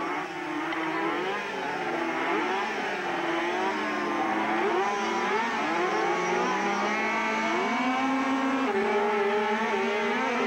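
Four 50cc speedway bikes' small two-stroke engines revving together at the start line, their pitches rising and falling as the riders blip the throttles. Near the end the engines hold steadier, higher revs as the bikes pull away from the start.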